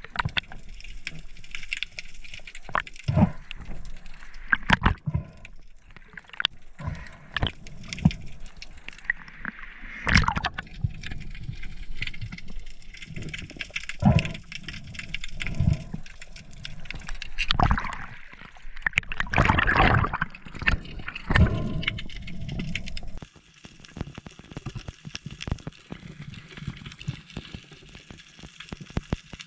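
Water sloshing and gurgling around the camera at the sea surface, broken by irregular knocks and splashes. It turns quieter about three-quarters of the way through.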